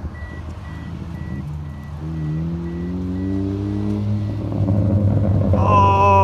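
Car engine running, its pitch rising as it speeds up from about two to four seconds in, with an electronic beeping repeating at an even pace. Near the end a louder, higher tone comes in and slides slowly down.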